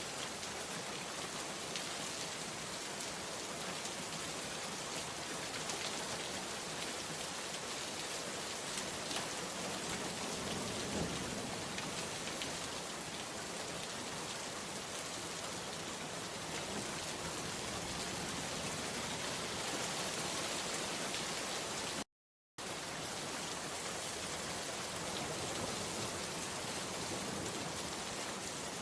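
Steady rain falling, an even dense hiss with no let-up; the sound drops out completely for about half a second near the end.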